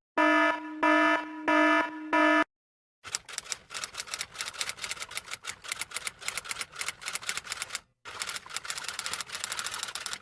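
Sound effects: a buzzy electronic tone that pulses four times, then after a short silence a long run of rapid clicking, many clicks a second, which breaks off briefly once.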